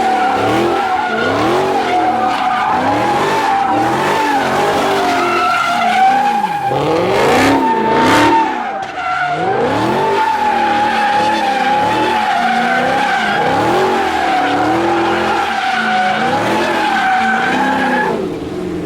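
Car tyres screeching in one long, unbroken squeal as the car spins them in a burnout, with the engine revving up and down about once a second. The squeal stops about 18 seconds in.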